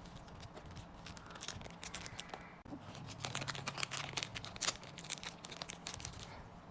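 Card packaging being unwrapped by hand: crinkling and tearing in quick crackles, sparse at first and then dense from about three seconds in until shortly before the end.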